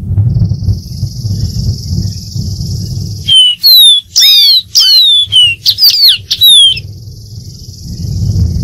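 Dark-throated seedeater singing one phrase of quick, slurred whistled notes, mostly falling in pitch. The phrase starts about a third of the way in and lasts about three and a half seconds. Before and after it there is a low rumble with a steady high hiss.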